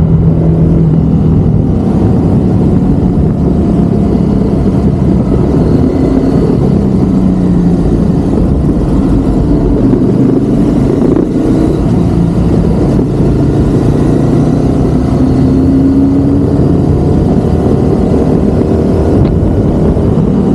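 Ducati Monster's V-twin engine running while riding, its note rising and falling gently with the throttle over a steady low rumble of road and wind noise.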